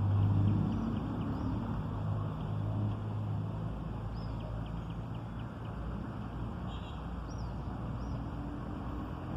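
A low steady hum, strongest in the first three seconds and then weaker, with a few short, high, bird-like chirps scattered through.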